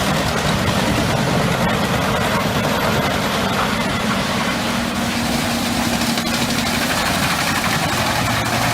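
Pezzolato PTH 1200/1000M wood chipper's Scania diesel engine running steadily at a constant pitch.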